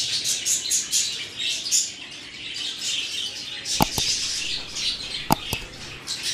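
Small birds chirping and chattering continuously in the background, with two pairs of sharp knocks about four and five and a half seconds in.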